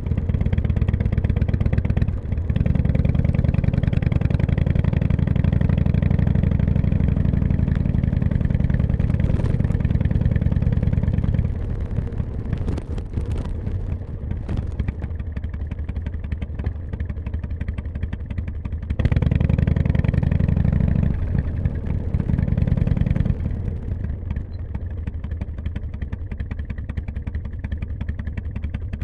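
Harley-Davidson V-twin motorcycle engine running while the bike is ridden. It is loud for the first stretch, drops to a lower level about a third of the way in, comes up loud again for a few seconds past the middle, then eases back.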